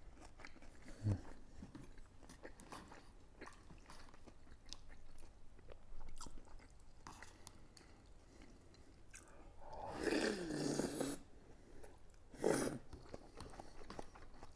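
Close-up chewing of a thick, crisp-fried pork cutlet, with many small wet mouth clicks and crunches. About ten seconds in comes a short hummed "mm" with falling pitch, and a brief louder chewing burst follows a second later.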